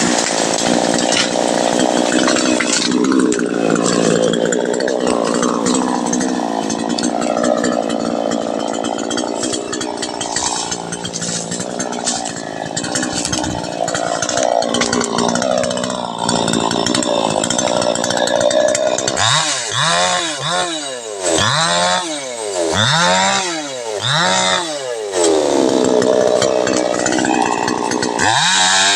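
Two-stroke chainsaw running at high revs, then revved up and back down about six times in quick succession, roughly once a second, before holding high revs again near the end.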